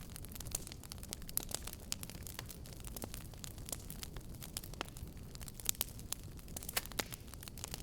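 Wood fire in a fireplace crackling: many sharp, irregular pops and snaps over a steady low rumble of burning.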